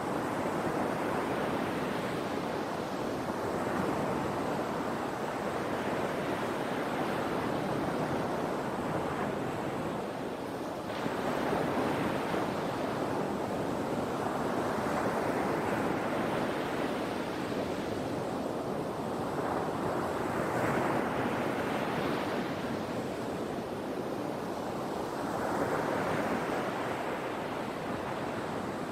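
Sea waves washing in as a continuous rush of surf, swelling with each breaking wave about every five seconds.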